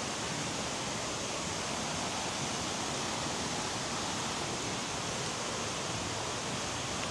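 Steady rushing of water from a waterfall and fast-flowing stream: an even, unbroken wash of sound.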